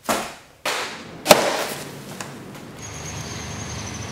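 A run of sharp thumps and rips from cardboard and duct tape being worked, the loudest about a second in. A little before three seconds these give way to a steady hiss with a faint high whine.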